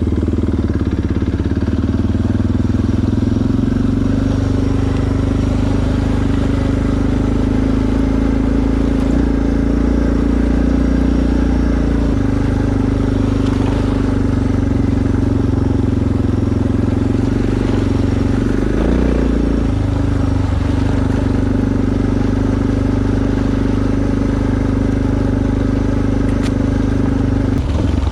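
Suzuki DR650's single-cylinder four-stroke engine running steadily under way, heard from the rider's helmet. The engine note shifts about twelve seconds in and again a little before twenty seconds as the throttle changes.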